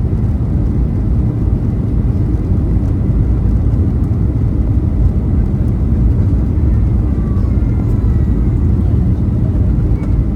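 Steady low rumble inside the cabin of a Boeing 737-800 from its CFM56-7B engines and the airflow around the fuselage. Faint whining tones slide gently in pitch over it.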